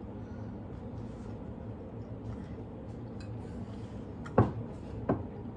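Two sharp clinks of kitchenware about a second apart, past the middle, over a steady low hum.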